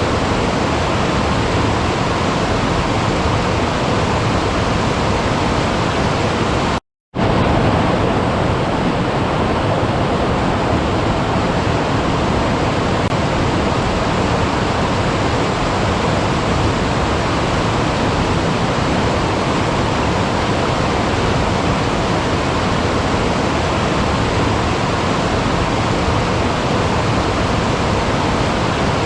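Steady rush of running water. About seven seconds in it cuts out for a moment and resumes with a slightly different tone, one water recording giving way to another.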